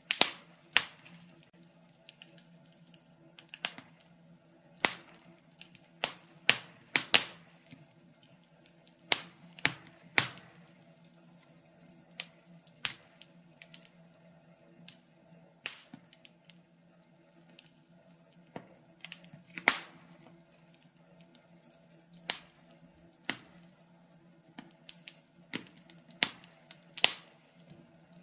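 Wood fire crackling in a fireplace: irregular sharp pops and snaps, a few of them much louder, over a faint steady low hum.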